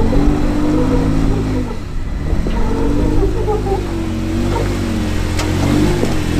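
Off-road Jeep engine revving up and down in repeated throttle blips while rock crawling over a steady low rumble, with a single sharp click or knock about five seconds in.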